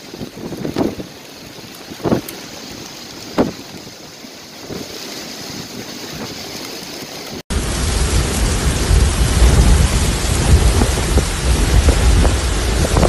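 Storm noise of wind and water with a few sharp knocks. About halfway through it changes abruptly to loud, heavy rain with wind buffeting the microphone in a low rumble.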